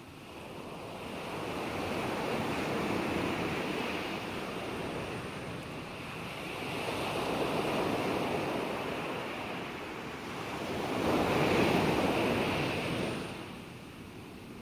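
Ocean waves breaking and washing in, rising and falling in three swells, the third and loudest about two-thirds of the way through, then dropping away near the end.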